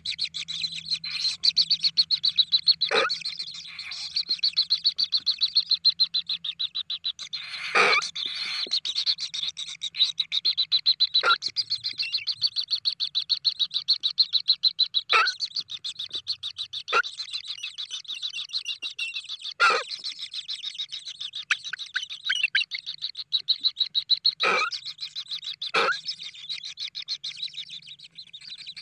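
Kingfisher chicks begging with a continuous rapid, high-pitched trilling chatter, the call of hungry nestlings, with about eight short sharp clicks over it.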